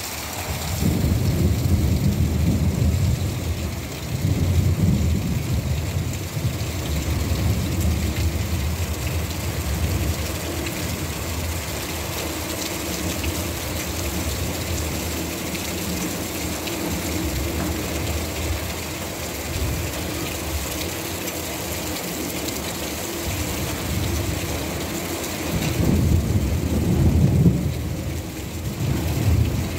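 Heavy rain falling steadily, with water pouring off a roof edge. A low rumble swells near the start and again near the end.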